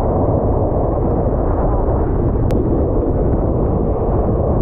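Steady loud rumble of a moving passenger train heard from an open doorway, with heavy wind buffeting the microphone.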